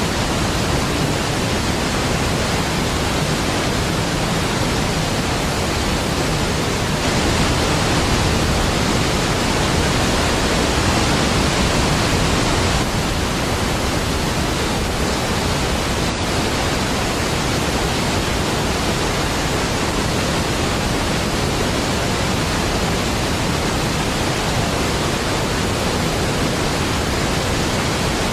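Large waterfall: a dense, steady rush of falling water, swelling slightly for a few seconds in the middle.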